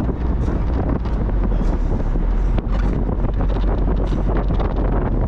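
Mazda Miata on the move: wind buffeting the microphone over a steady low rumble from the engine and tyres on the road.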